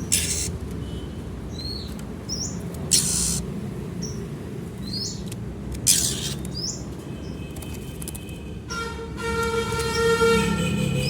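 Small birds giving short, high chirps every second or so over a constant low traffic-like rumble, with three brief noisy bursts. A steady pitched hum with many overtones comes in about three-quarters of the way through.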